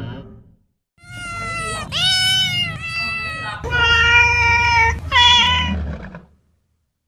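Domestic cat meowing: several drawn-out meows in quick succession, some rising in pitch and then holding.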